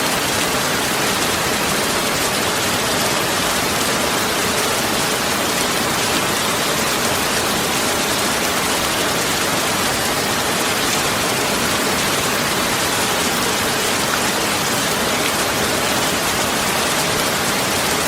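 Steady, even rushing noise like heavy rain falling, unchanging throughout.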